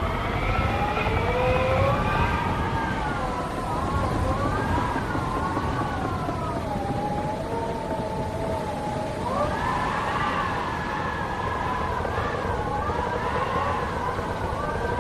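Wind howling through an abandoned barn: several whistling tones waver and glide up and down together over a steady low rumble of gusts, the pitch rising noticeably a little past halfway.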